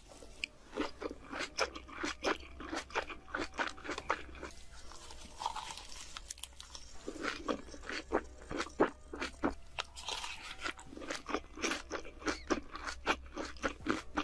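Close-miked chewing of a big mouthful of a leafy ssam wrap: a quick, irregular run of crisp, wet crunches.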